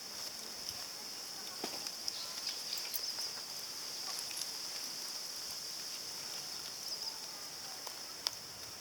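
Steady high-pitched insect chorus, with scattered faint clicks and one sharper click near the end.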